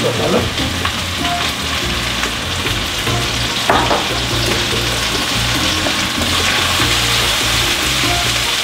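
Chopped onions and meat sizzling in oil in a stainless-steel frying pan, stirred with a wooden spoon. There is a steady frying hiss, with a sharper stroke of the spoon a little before halfway.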